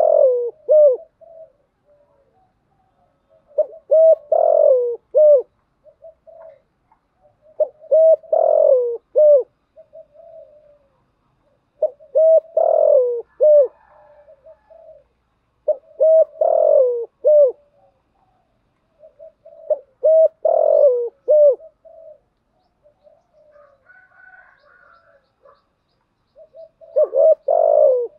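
Spotted dove cooing: a phrase of several short coo notes about every four seconds, with one longer pause before the last phrase. It is a decoy dove's call, used to stir other doves into cooing and calling.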